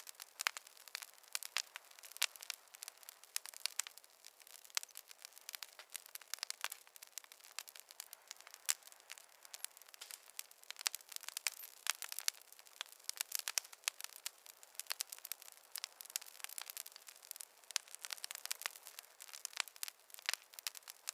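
Wood fire in a fireplace crackling: a dense, irregular stream of small sharp pops and snaps over a faint hiss, with no low rumble.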